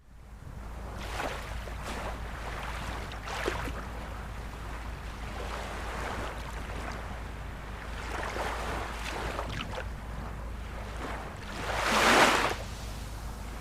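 Ocean waves washing in and breaking, over a steady low rumble of wind on the microphone, with one louder wave crashing about twelve seconds in.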